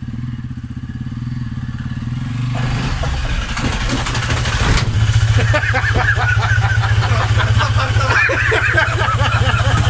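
EXC 350 enduro motorcycle's engine running, revved as the bike rides up a ramp into a van. There is a single knock about five seconds in, after which the engine is louder and steady.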